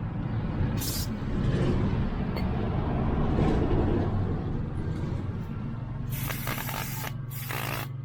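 Aerosol carburetor cleaner hissing out of the can in short squirts: a brief one about a second in and two longer ones near the end, over a low rumble.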